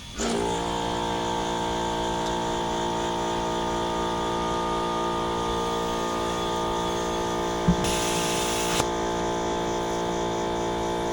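Air compressor motor starting about a quarter second in and running steadily while a tyre is inflated. A short burst of hissing air comes about eight seconds in, with a click at its start and end.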